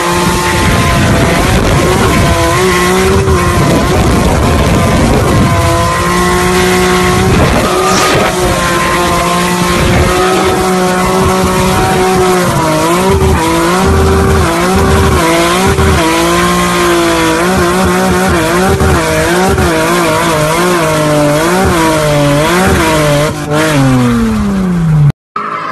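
Car engine held at high revs at speed, its pitch wavering up and down, over heavy wind and road noise. Near the end the revs fall away in one long drop, then the sound cuts off suddenly.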